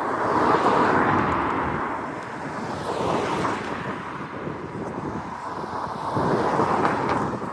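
Road traffic going past with wind on the microphone. The noise swells about half a second in and again near the end.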